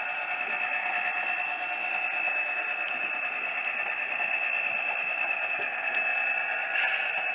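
Model diesel locomotive's Soundtraxx Tsunami 2 sound decoder playing a steady prime-mover engine sound through its small speaker, with a few faint clicks, as the train runs at speed step 15.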